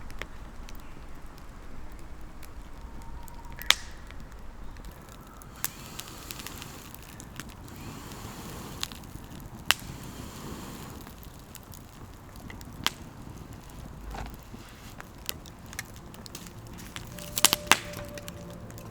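Wood campfire crackling: a steady low hiss broken by irregular sharp pops every second or two.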